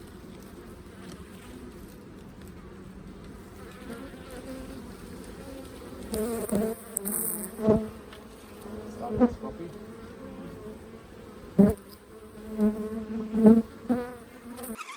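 Honey bees buzzing around an opened hive: a steady low hum, with individual bees passing close several times in the second half, each a louder buzz that swells and fades.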